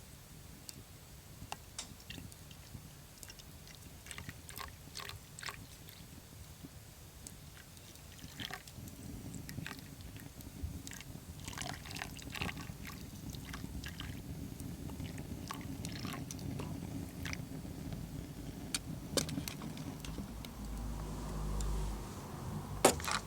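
Milk being poured into a cup of strong coffee, a liquid pouring sound that sets in about a third of the way through and carries on, over scattered sharp crackles from a wood fire.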